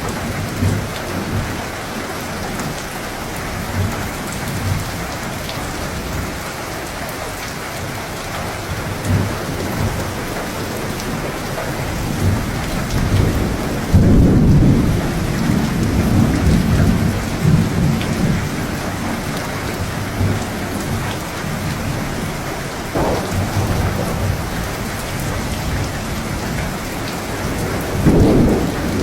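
Steady rain falling, with low rolling thunder underneath. A loud rumble of thunder comes about halfway through and rolls on for several seconds, and another begins near the end.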